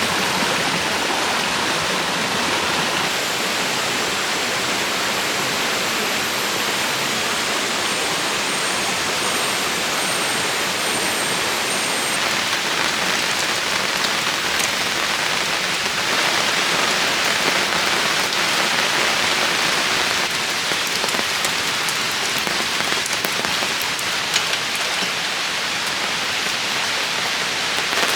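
Steady rain falling, a continuous even hiss, with more individual drops ticking on a surface in the second half.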